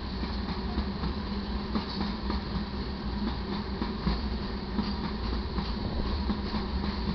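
Loaded taconite ore hopper cars of a freight train rolling past at speed: a continuous low rumble with wheels clacking and knocking over the rail joints.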